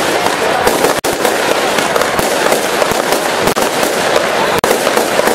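Consumer multi-shot fireworks cake firing: a dense, unbroken crackling of bursting stars with rapid pops, loud throughout.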